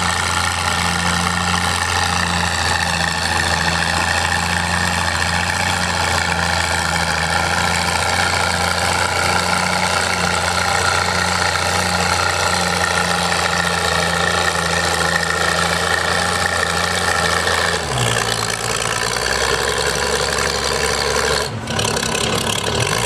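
Oliver 770 tractor engine working hard at a steady pitch as it pulls a weight-transfer sled down the track. About 18 seconds in, the engine note drops suddenly as the pull ends and the tractor slows.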